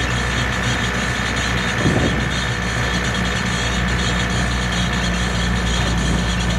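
Light pickup truck's engine running steadily with road noise while driving, a steady low hum with a thin high whine above it. A single short knock about two seconds in.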